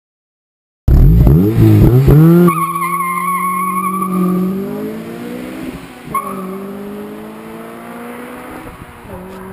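9th-generation Honda Civic Si passing close at speed, its engine and exhaust loud with the pitch swinging as it revs and shifts. The car then pulls away with the engine note fading and climbing, while a high wavering tyre squeal sounds for a couple of seconds, with another short chirp about six seconds in.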